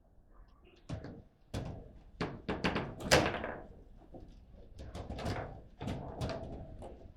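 Table football (foosball) play: the ball is knocked about by the player figures and off the table, giving a quick run of sharp knocks and thunks. The run starts about a second in and is loudest about three seconds in.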